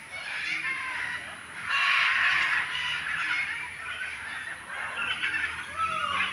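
Birds in an aviary calling: harsh, squawking calls, loudest about two seconds in, with a short arching call near the end.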